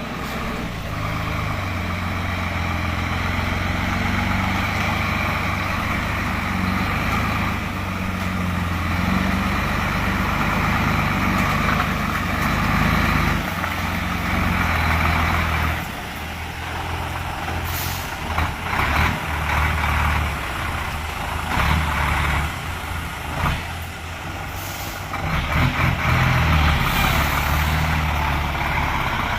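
Heavy truck's diesel engine running under load, its pitch rising and falling as the throttle changes. Several short hisses of air cut in, about two-thirds of the way through and near the end.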